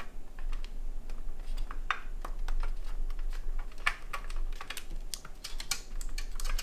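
Rapid, irregular small plastic and metal clicks and taps from hands working a stiff PCIe power cable and its connector against a graphics card inside a small PC case, over a low steady hum.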